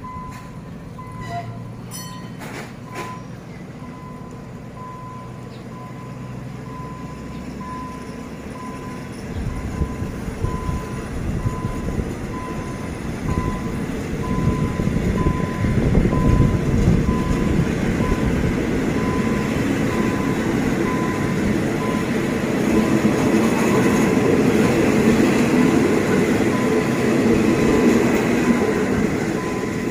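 Passenger train carriages rolling past on the rails as the train pulls out of the station. The wheel-and-rail rumble builds from about a third of the way in and stays loud as the train gathers speed.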